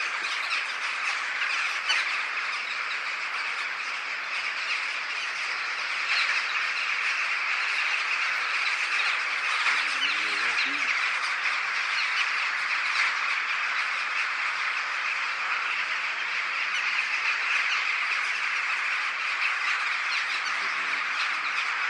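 A huge flock of birds calling all at once: a dense, unbroken chatter of countless overlapping high calls that holds steady throughout.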